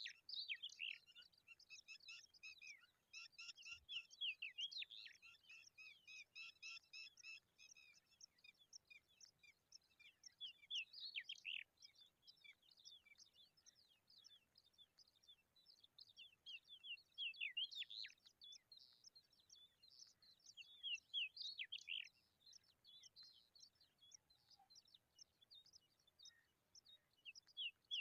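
Birds chirping in rapid strings of short, high notes, thickest during the first several seconds and returning in bursts later on.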